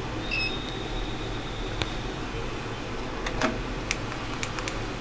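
Steady fan-like whir at a repair bench, with scattered light clicks of small metal tools on the board and a brief faint high beep near the start.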